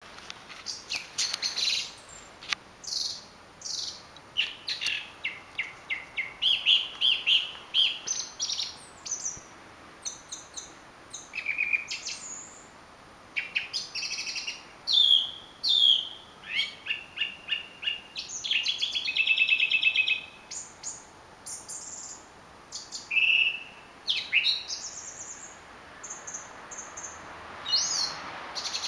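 A thrush singing: a long run of short, varied whistled and rattling phrases, some made of quickly repeated notes, with brief pauses between phrases.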